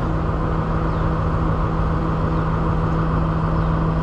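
Diesel train's engine running with a steady low hum.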